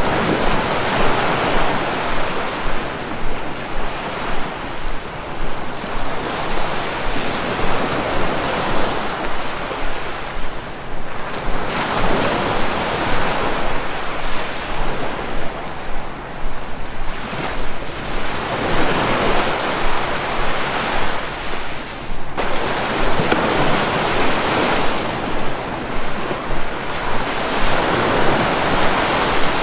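Sea waves breaking and washing in one after another, a rushing surge that swells and falls back every few seconds.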